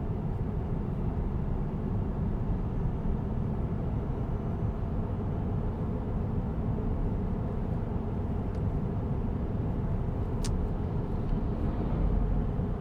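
Steady low road and tyre noise inside a moving Tesla Cybertruck's cabin, with no engine note since the truck is electric. A single sharp click comes about ten seconds in.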